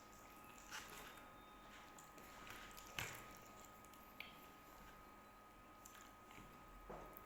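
Quiet eating sounds: a few faint mouth smacks and clicks of chewing and handling food, the loudest about three seconds in, over a faint steady hum.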